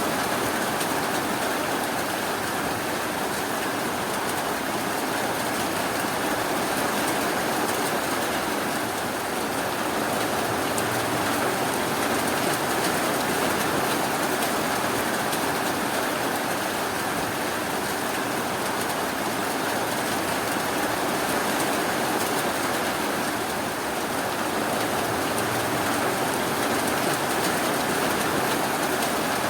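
Steady rainfall, an even hiss with no thunder or sudden sounds.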